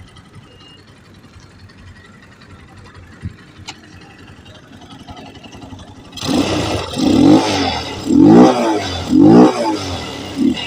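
Shineray 175 cc motorcycle engine fitted with a sport air filter, idling quietly and then revved hard about six seconds in. It gives three sharp throttle blips about a second apart, each rising and falling in pitch, and a short fourth blip near the end.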